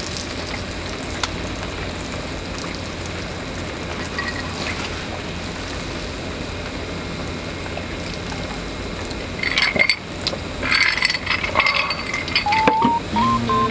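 Chicken sizzling steadily in a skillet. From about nine and a half seconds in, ice clinks and rattles in a highball glass, and music starts near the end.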